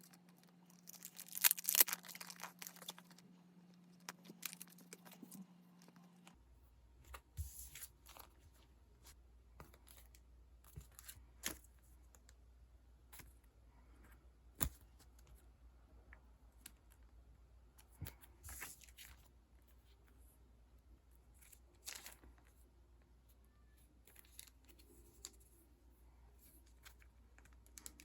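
Sticker sheets and their packaging being handled: a short tearing rustle about a second in, then scattered light rustles and clicks.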